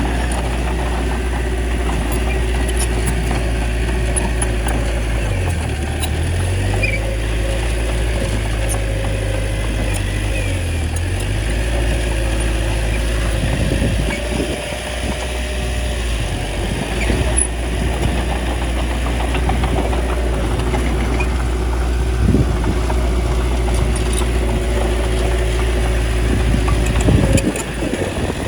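Small bulldozer's diesel engine running steadily. Its note dips briefly about five seconds in and again about ten seconds in, with a few short clunks later.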